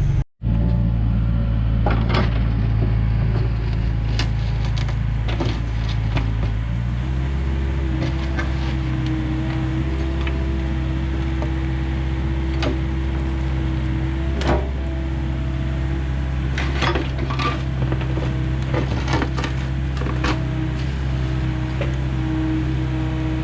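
Excavator engine running steadily, its note changing about seven seconds in, with scattered sharp knocks and cracks as the machine works the ground and stumps.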